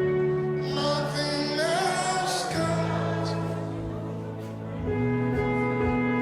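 Slow gospel worship music: sustained keyboard chords with wordless vocals about a second in, swelling again near the end.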